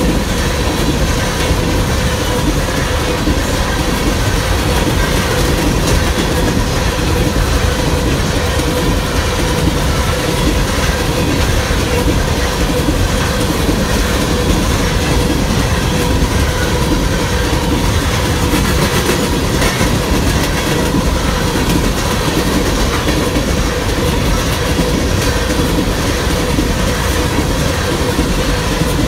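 BNSF freight train's cars rolling steadily past at close range, loud and unbroken, with a faint steady whine from the wheels on the rail.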